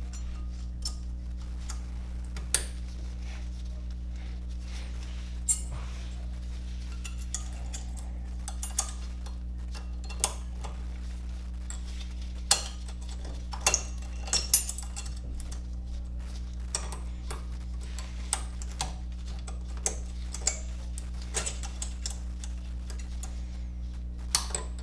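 Metal tools and brake parts clicking and clinking at irregular intervals, about a dozen sharp knocks with the busiest run around the middle, over a steady low hum.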